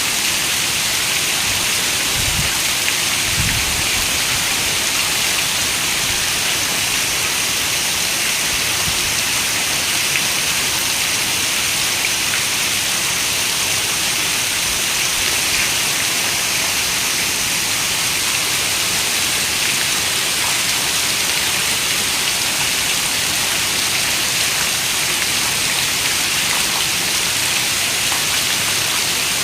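Steady rain falling: an even, dense hiss of raindrops that does not let up, with a couple of soft low thuds about two and three seconds in.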